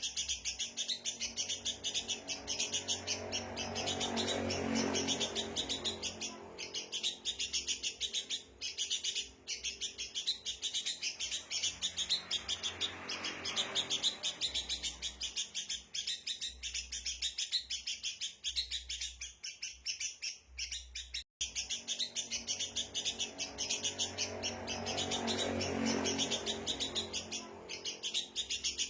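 A flock of sooty-headed bulbuls (kutilang) giving agitated, scolding calls: rapid overlapping chirps, the alarm chatter used as a lure to draw wild birds in. A lower rushing sound swells and fades three times, and there is a momentary break about two-thirds of the way through.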